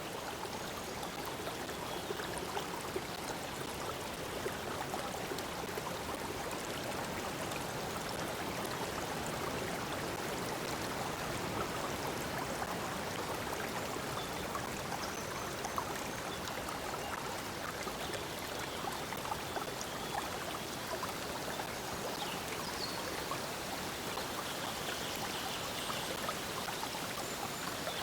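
A stream of water flowing steadily, with faint high bird chirps now and then.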